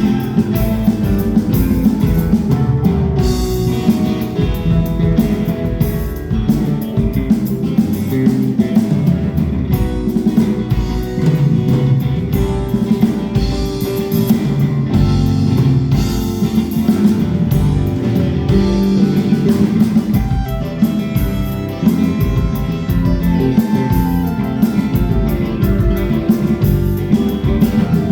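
Rock band playing an instrumental passage between verses: guitar over bass and drum kit.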